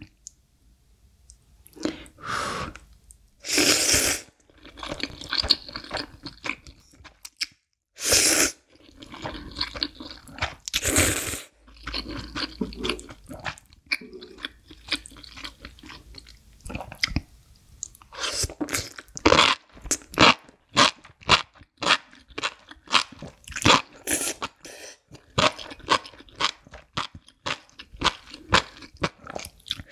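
Eating sounds: a few long noodle slurps in the first half, then rapid crunchy chewing of sauce-soaked enoki mushrooms and noodles, many short crunches close together.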